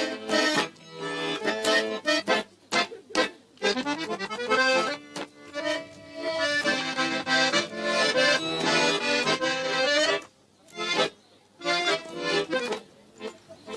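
Russian button accordion played solo, chords and a quick melody in short phrases, with a brief pause about ten seconds in.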